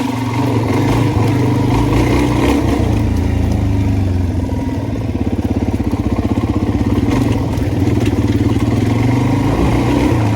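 Suzuki DR-Z400E single-cylinder four-stroke dirt bike engine running at a steady speed. It sets in abruptly at the start.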